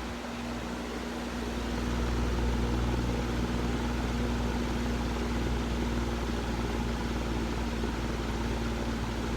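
A steady low mechanical hum with a constant faint tone, growing a little louder about two seconds in.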